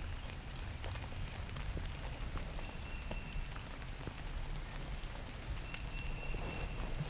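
Steady rain falling, with many scattered raindrop ticks. Twice, a faint thin high whistled note rises briefly above it.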